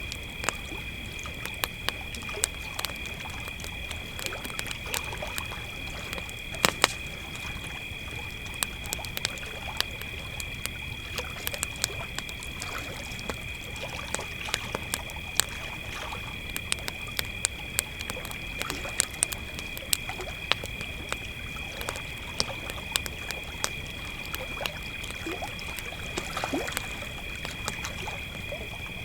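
Crickets trilling steadily and without a break, over a crackling campfire giving off irregular sharp pops and snaps.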